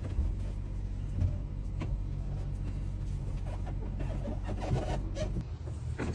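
A truck engine running steadily, with a few light clicks and knocks over it.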